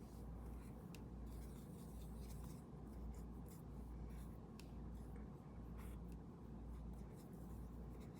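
Faint scratchy strokes of a paintbrush working paint onto the painting, in short irregular passes, over a low hum.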